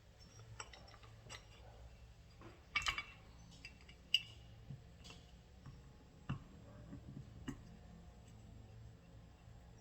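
Scattered light metallic clicks and clinks of starter motor parts and hand tools being handled during reassembly, with a quick cluster of taps about three seconds in and single taps after.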